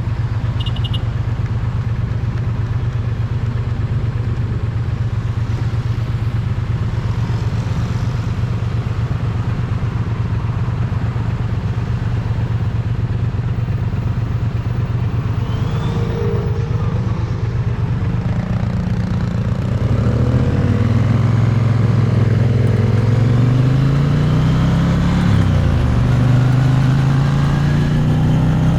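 Triumph Bonneville T100's parallel-twin exhaust, recorded close to the pipe. It runs steadily at low revs, then about two-thirds in the revs rise and drop several times as the bike accelerates through gear changes.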